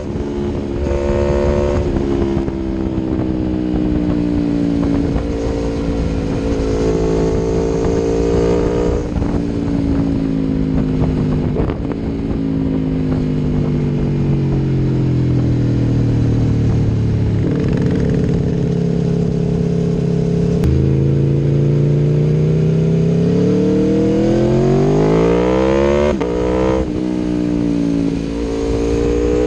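Aprilia Tuono V4 1100 Factory's V4 engine through an Akrapovic exhaust, under way: the revs sink slowly for much of the time, hold steady, then climb hard near the end, drop sharply at a gear change and climb again.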